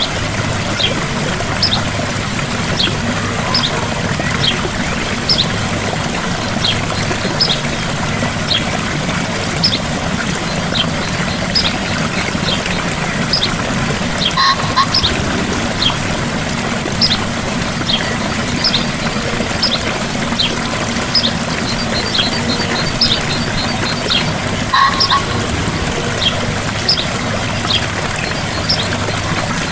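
Gentle waterfall, water falling and splashing steadily. Over it, high short chirps repeat about once a second, with two lower calls about halfway through and again near the end.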